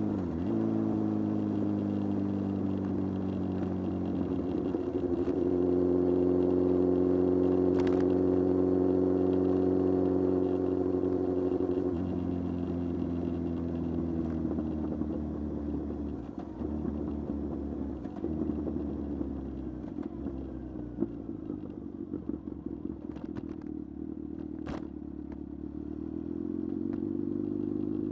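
Kawasaki Z1000 inline-four motorcycle engine running on a ride. The note dips at the start, holds steady for several seconds, then falls to a lower, quieter note from about halfway, and rises again near the end. A few sharp clicks are heard.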